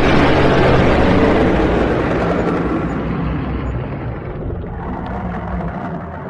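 Dragon sound effect: a long, harsh rumbling noise that slowly fades away.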